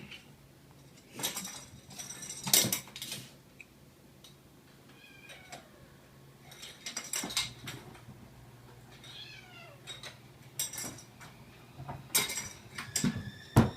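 Kittens playing in an empty paper takeout sack and with plastic cutlery: bursts of paper crinkling and light plastic clatter, with a few small, high kitten meows.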